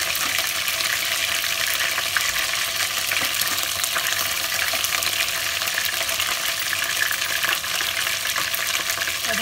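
Chicken pieces frying in hot oil on high flame, a steady dense sizzle full of fine crackles.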